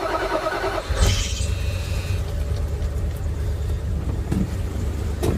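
1986 Dodge D350's 360 V8 running just after a cold start, with a steady low rumble and a brief louder surge about a second in.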